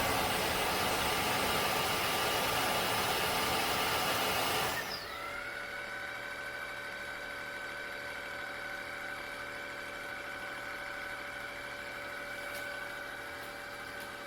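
Tineco Floor ONE S7 Pro wet-dry vacuum running its automatic self-cleaning cycle on the dock, at the pipe-cleaning stage: the suction motor runs loud with a rushing noise, then about five seconds in drops to a quieter steady whine.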